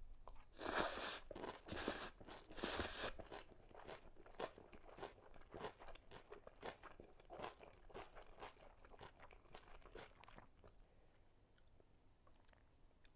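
A person eating close to the microphone: three loud crunching bites in the first three seconds, then rapid chewing clicks that thin out and fade about ten seconds in.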